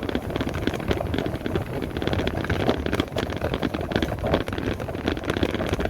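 Riding an electric motorbike: wind buffeting the microphone and road noise, with irregular clatter throughout.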